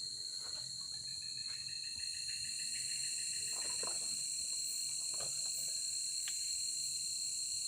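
Steady night chorus of crickets and other insects: one constant high trill with a shrill hiss above it, and a few faint clicks and taps in the background.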